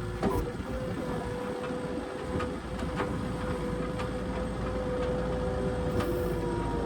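New Holland skid steer running under load, its engine and hydraulics making a steady whine, with a few sharp clanks at intervals.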